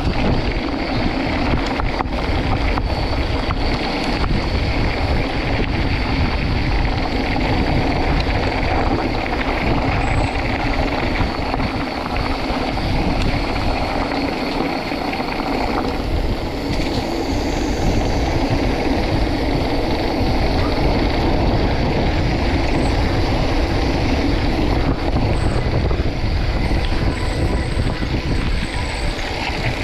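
Continuous wind rush on the microphone with a steady rattling rumble, as from a fast downhill ride.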